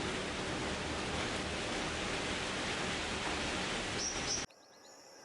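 Steady outdoor rushing hiss, cut off abruptly about four and a half seconds in. A much quieter scene follows, with a faint, thin, steady high insect trill.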